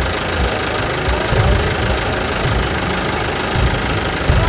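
A motor running steadily, with a low, uneven throb.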